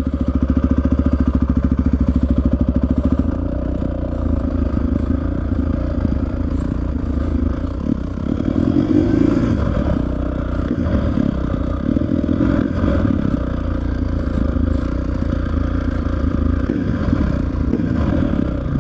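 Honda 650R dirt bike's single-cylinder four-stroke engine running, a little louder for the first few seconds and then steady at lower revs.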